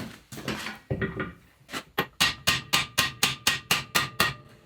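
Hammer blows on a socket used as a drift, driving a Land Rover Series gearbox main shaft into its bearing: a few scattered knocks, then a steady run of about ten sharp metallic strikes, roughly four a second.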